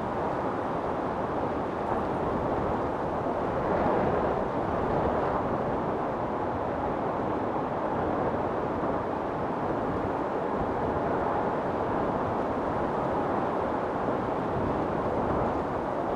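Storm wind blowing in a steady rush, swelling a little about four seconds in.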